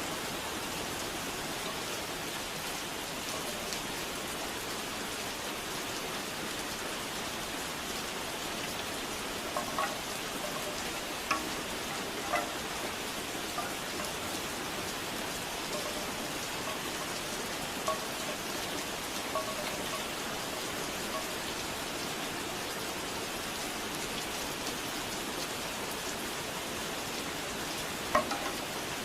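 Steady rain falling, with scattered hollow knocks of bamboo wind chimes: a cluster in the middle, a few more later, and a louder one near the end.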